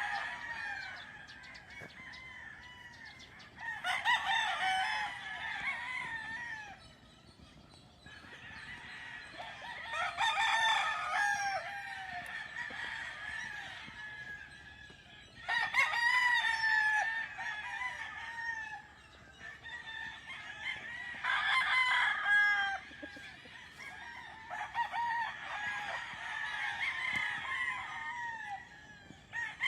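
Roosters crowing, a loud crow about every five or six seconds, over steady clucking of chickens.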